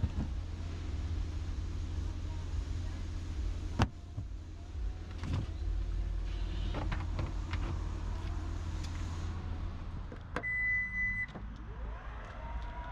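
Inside a 2026 Toyota RAV4 Hybrid: a steady low cabin rumble with several clicks, the loudest a sharp click about four seconds in. Near the end comes a single high electronic beep lasting about a second.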